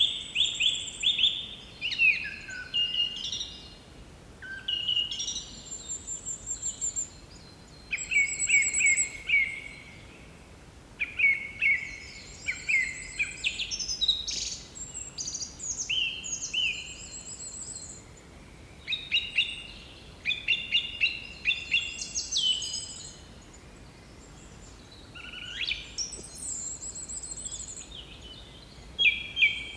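Songbirds singing: bouts of quick, high chirps and short trills, several notes a second, broken by pauses of a second or two.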